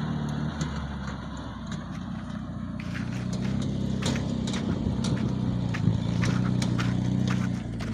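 Homemade tractor's engine running steadily, with a rapid clatter of clicks and rattles starting about three seconds in. It eases off near the end.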